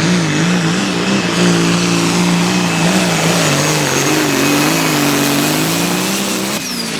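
Light pro stock pulling tractor's turbocharged diesel engine running flat out under load, its pitch wavering slightly as it drags the sled. Near the end the engine is suddenly backed off and a high whistle falls away.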